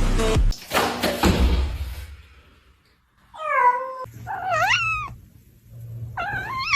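Domestic cat meowing three times in the second half, each meow bending in pitch: the first falling, the second dipping then rising, the third rising. Before the meows come a few knocks with noise.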